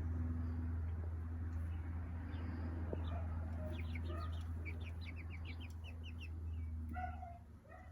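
Young chickens peeping, with a quick run of short high chirps through the middle and a few lower calls near the end. Under them is a steady low hum that cuts off about seven seconds in.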